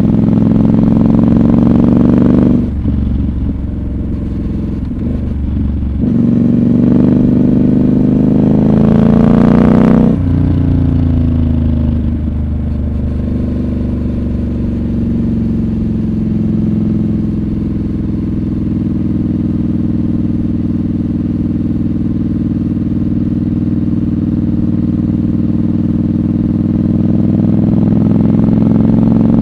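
Triumph Scrambler 1200 XC's 1200 cc parallel-twin engine under way. The engine note climbs twice and drops abruptly each time, a few seconds in and about ten seconds in. It then sinks slowly as the bike slows and picks up again near the end.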